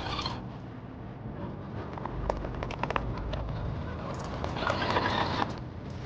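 Radio-controlled scale off-road truck crawling over rough ground: scattered sharp clicks and scrapes, most of them between two and three and a half seconds in, over a steady low rumble.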